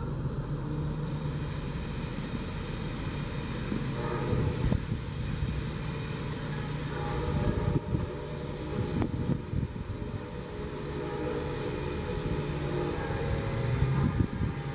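Passenger train running away from the listener: a steady low diesel drone with rail and wheel noise, and a few short knocks from the wheels about halfway through.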